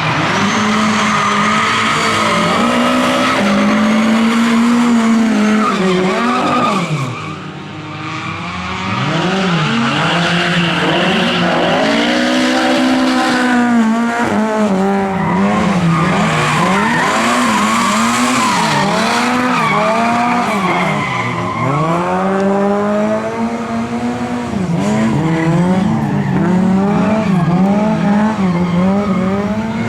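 Lada race car engines revving hard, several at once, their pitch repeatedly climbing and falling as they accelerate, shift and lift off, with a brief lull about a quarter of the way in.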